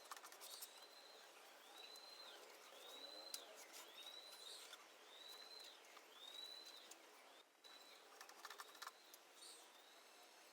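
A bird calling faintly: a rising-then-falling whistled note repeated about seven times, roughly once a second, with a few faint clicks near the start and again about eight seconds in.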